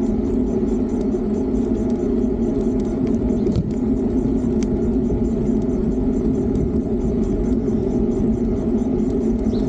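Steady, unbroken riding noise of a Fiido D3 Pro electric bike under way, with a couple of faint ticks near the middle.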